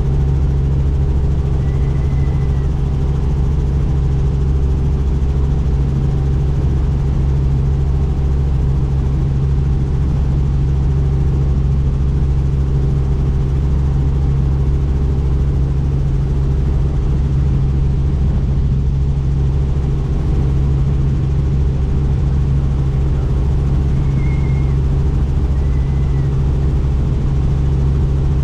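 Helicopter in steady cruising flight: a constant loud drone of rotor and turbine that holds level throughout. A few faint short high tones sound about two seconds in and twice near the end.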